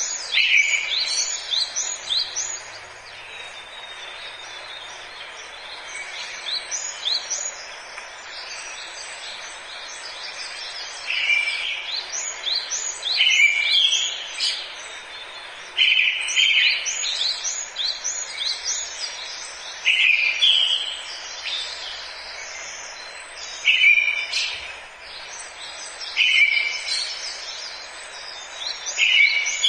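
Forest birdsong: several songbirds chirping with many quick falling notes, while one bird repeats a louder, lower phrase every two to four seconds, over a steady hiss of background ambience.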